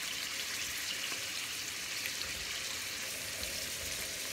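Chunks of beef liver sizzling in hot fat in a frying pan over the highest flame, being seared to seal in their juices. A steady, even hiss.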